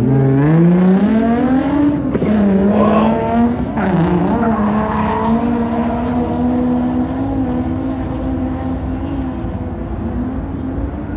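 Car engine revving hard: the revs climb over the first two seconds, drop and pick up again twice, then hold high and steady.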